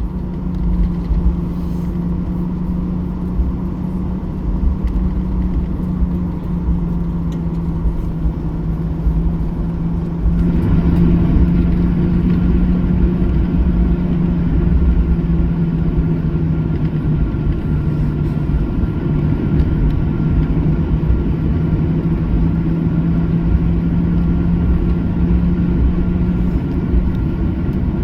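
Cabin noise of a Boeing 737-800: the CFM56 jet engines droning with a steady low hum over a heavy rumble. The sound grows louder about ten seconds in.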